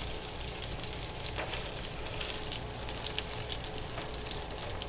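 Breaded chicken pieces frying in a pan of hot oil: a steady sizzle with many small crackles and pops.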